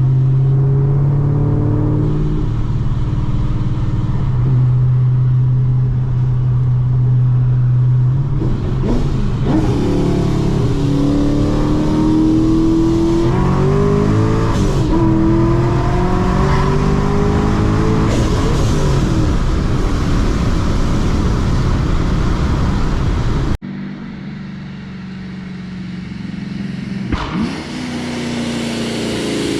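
Supercharged, straight-piped Camaro engine at full throttle: a loud steady drone for the first several seconds, then the revs climb again and again as the car pulls hard through the gears. About 23 seconds in the sound drops off suddenly to a quieter engine note that starts climbing again near the end.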